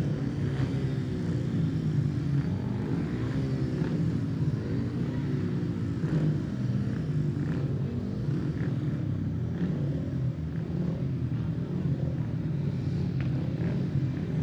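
Racing vehicle engines running continuously, several overlapping pitches weaving up and down at a steady level.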